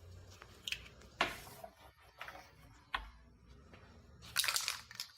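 Aerosol spray paint can hissing in short bursts, the longest near the end, with a few light knocks in between.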